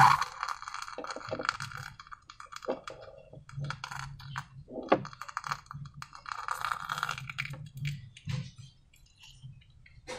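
Slime being squeezed and worked by hand: wet squelching with many small, irregular sticky clicks and crackles. Denser squelches come near the start and again about two thirds of the way in.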